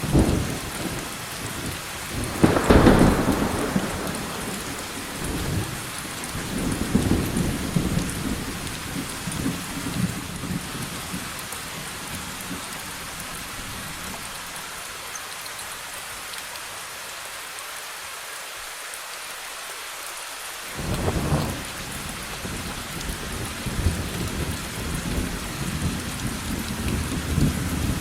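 Steady heavy rain hissing, with rolling thunder: a loud clap about three seconds in that rumbles on for several seconds, a quieter lull in the rumbling, then another clap around two-thirds of the way through followed by more rumbling.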